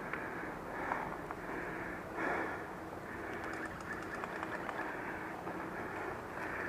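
Outdoor background sound with birds calling, including a faint steady low cooing, over a constant hiss.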